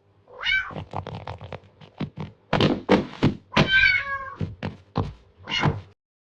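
Kitten meowing several times, the longest meow about two-thirds of the way through, mixed with quick taps and knocks; the sound stops abruptly near the end.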